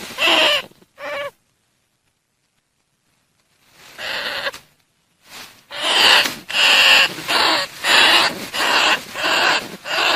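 Bandicoot rat calls played as a lure: a rapid series of short, high calls, about two a second. They break off about a second and a half in, and after a gap of dead silence and a few calls around four seconds, they run on steadily from about six seconds.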